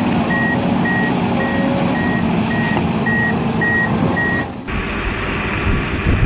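Heavy machine's backup alarm beeping about twice a second over its running engine. About four and a half seconds in, the sound cuts off abruptly to a deeper, rougher engine rumble.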